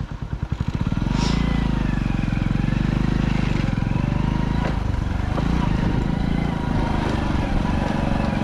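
Motorcycle engine: its separate firing beats quicken as the bike pulls away about a second in, then it runs steadily under way.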